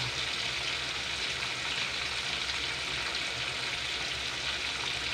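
Food deep-frying in hot oil: a steady sizzle that cuts off suddenly at the end.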